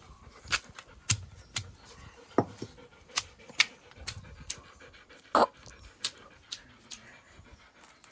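A dog panting, with scattered sharp clicks and a short louder sound about five seconds in.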